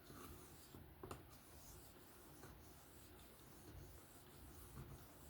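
Faint scratchy rubbing of a steel knife edge being worked by hand to take off a burr, with a light click about a second in.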